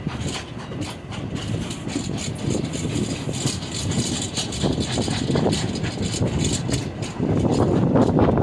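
Passenger railcar rolling along the track: a steady rumble of wheels on rails that grows louder about seven seconds in.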